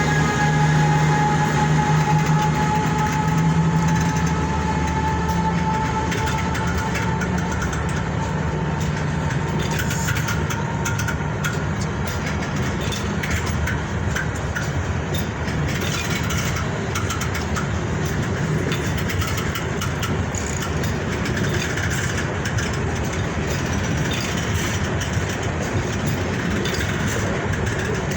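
Passenger train hauled by a KZ4AT electric locomotive moving along the track: a steady rumble of the locomotive and coaches, with a high whine that rises slightly and fades out over the first ten seconds or so.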